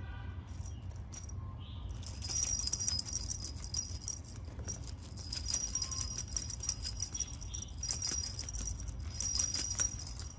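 Small jingle-bell cat toy rattling and jingling in several short bouts as it is batted around, over a steady low hum.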